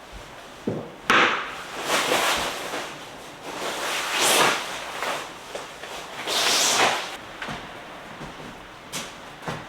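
Gale-force wind gusts rushing against the hut in several swells, with a few sharp knocks and bangs, one near the start and two near the end.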